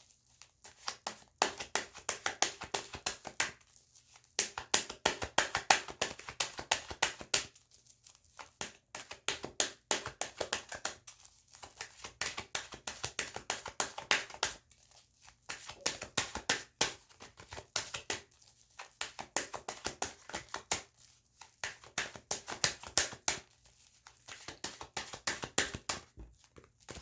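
Tarot cards being shuffled by hand: rapid rustling clicks of the cards in spells of a few seconds, broken by short pauses. The deck is well-worn.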